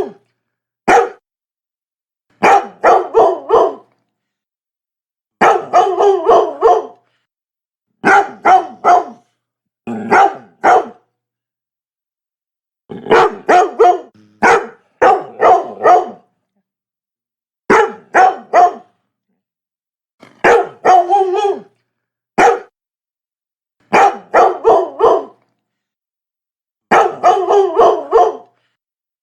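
Labrador barking, a quick run of two to four barks every two to three seconds, with dead silence between the runs.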